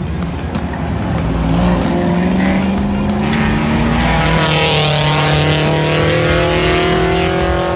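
Car engine accelerating, its pitch rising for the first couple of seconds, then running loud at a steady pitch.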